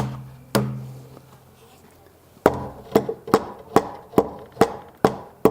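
Hammer blows on timber framing: two strikes that ring with a low tone, a pause of about two seconds, then a steady run of about eight evenly spaced blows, a little over two a second.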